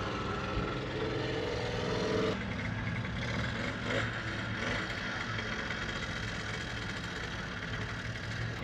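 ZIL-137B truck's engine running steadily at a low, even speed.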